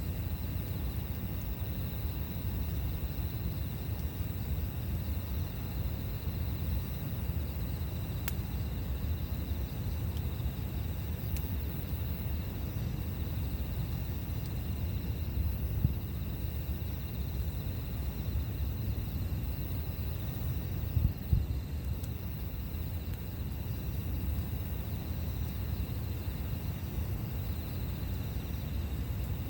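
Campfire burning, with a few sharp pops and a couple of louder knocks around the middle, over a steady low rumble. Faint steady insect chirring runs underneath.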